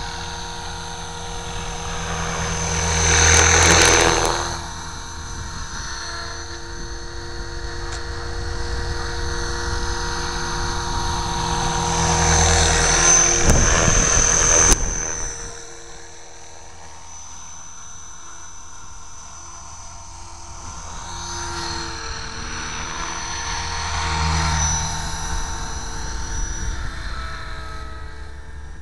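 450-size electric RC helicopter in flight: a steady motor and rotor whine with rotor rush that swells and fades three times as it passes close, loudest about 4 and 14 seconds in, and drops off suddenly just before the middle.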